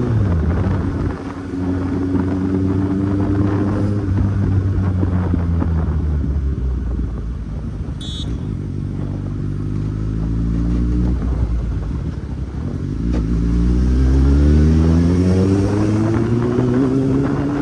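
Kawasaki Z800 inline-four engine on the move: it runs steadily, drops to a low, slow note in the middle, then climbs in pitch as the bike accelerates near the end. A brief high chirp sounds about eight seconds in.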